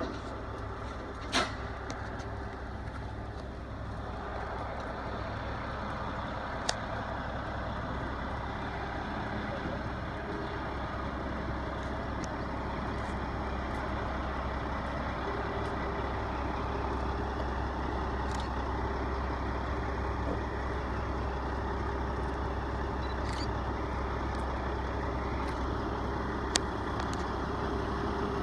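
A heavy engine running steadily at a low rumble, with a steady tone joining about halfway through and a few sharp clicks.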